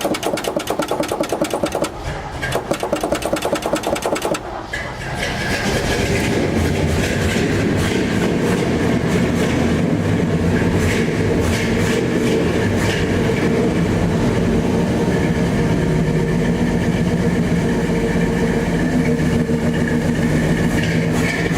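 The 1970 GMC pickup's engine is cranked by its starter, a rapid rhythmic churning, for about four and a half seconds. It then catches and keeps running steadily, louder, through its new exhaust. It is a cold start, got going only after gas was poured into a carburetor that needs rebuilding.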